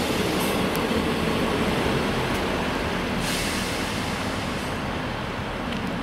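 Northern class 158 diesel multiple unit running along the platform and pulling away, its underfloor diesel engines and wheels on the rails making a steady rumble that slowly fades. There is a brief hiss about three seconds in.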